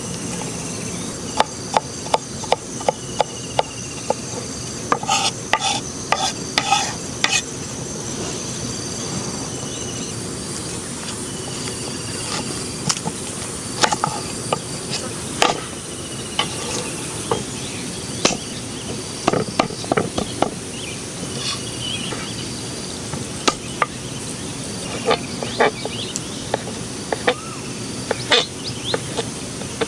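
Food sizzling on a hot cooking stone, with quick sharp clicks and taps of a utensil: a dense run of them over the first several seconds, then scattered ones.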